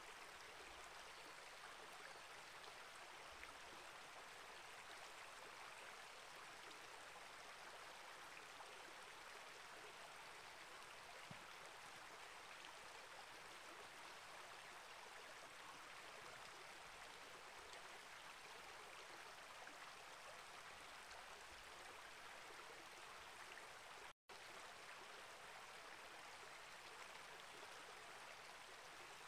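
Small rainforest creek flowing: a faint, steady rush of water. It drops out completely for an instant about four-fifths of the way through.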